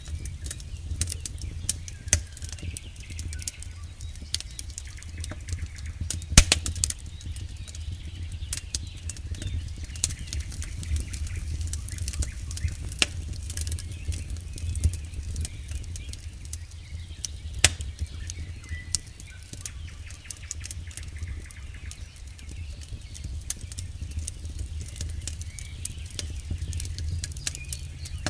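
Campfire crackling steadily, with dense irregular snaps and two louder pops, about six seconds in and again near eighteen seconds, over a steady low rumble.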